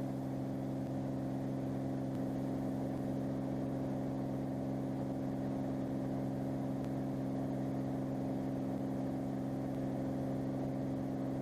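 Cirrus SR22's piston engine and propeller droning steadily at climb power, an even stack of low hums over a faint hiss.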